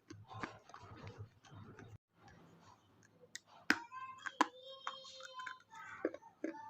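Chewing a mouthful of KitKat chocolate wafer close to the microphone: a run of sharp crisp clicks and crackles from the breaking wafer, with the loudest snaps in the middle.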